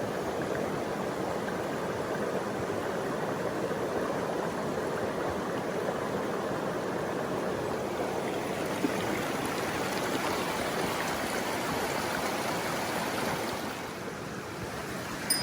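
Mountain stream flowing with a steady, even rush of water, easing a little near the end.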